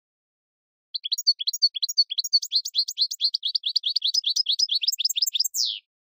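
A bird singing a fast run of high chirps, several a second, starting about a second in and ending with a falling note.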